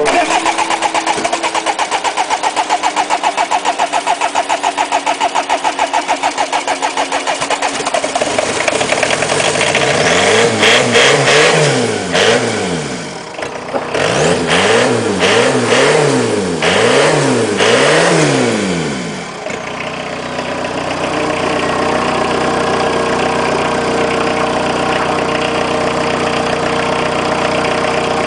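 Peugeot 306 1.9 turbo diesel being cranked over by the starter with a fast, even pulsing for several seconds on a hard cold start, then catching. It is revved up and down several times and settles into a steady idle.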